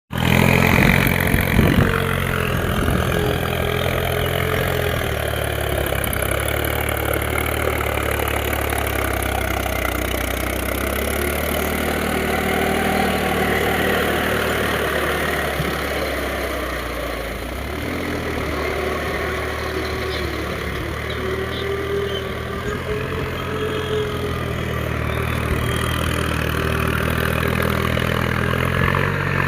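Mahindra tractor's diesel engine running steadily, with a few clattering knocks in the first two seconds.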